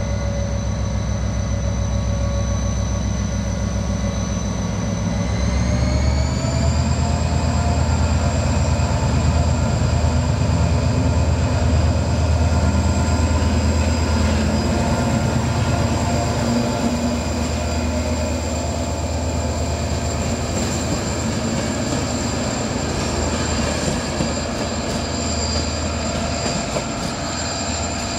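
Diesel train running, its engine note rising about five seconds in and then holding steady over a low rumble.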